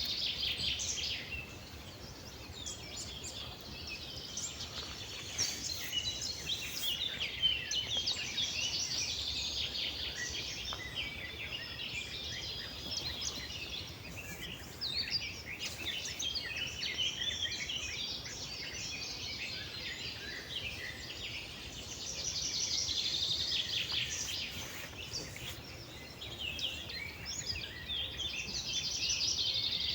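Many songbirds singing over one another in a dense spring morning chorus of overlapping chirps and trills.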